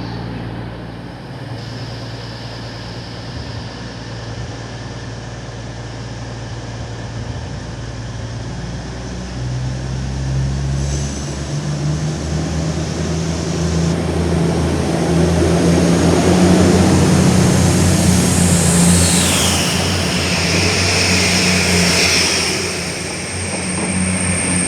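Diesel train engine running at the platform, then building up power about ten seconds in and growing louder, with high whistling tones sliding down near the end.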